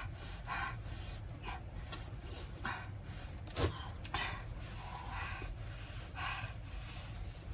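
A person breathing hard in and out through the mouth, about one breath a second, from the burn of 3x spicy noodles. A single sharp click comes about three and a half seconds in.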